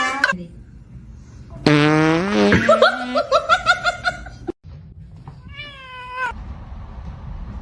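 Cat vocalisations: a loud, buzzy call rising in pitch breaks into a quick run of short cries, and then, about six seconds in, comes a single meow.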